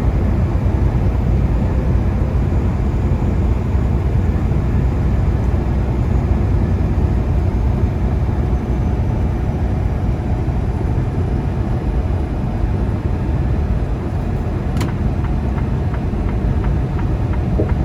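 Steady low rumble of a semi truck's engine and road noise heard inside the cab while driving, with one brief click about fifteen seconds in.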